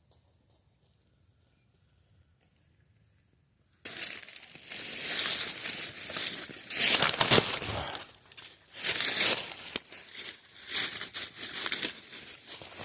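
Loud, irregular crinkling and rustling starting suddenly about four seconds in, after near silence.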